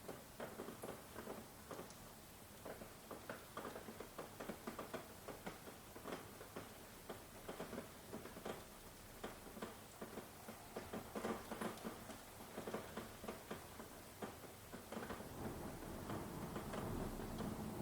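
Rain falling in irregular pattering drops and drips. Near the end a low rumble of thunder builds up beneath it.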